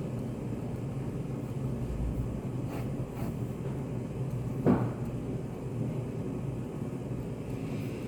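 Study café room ambience: a steady low hum and rumble with a few faint taps and clicks, and one louder knock about halfway through.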